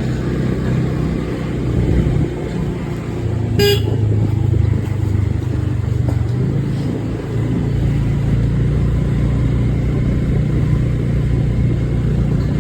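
Steady low rumble of a motor vehicle running. About four seconds in there is one short horn toot.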